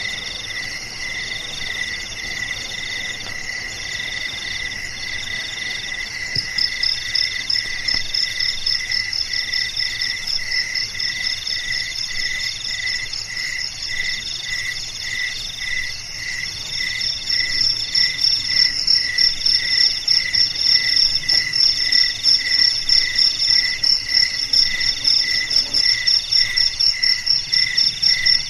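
A chorus of crickets, several kinds calling at once: a steady chirp repeating about twice a second, a higher trill in phrases about a second long, and a rapid, high, pulsing trill that joins about six seconds in and grows louder past the middle.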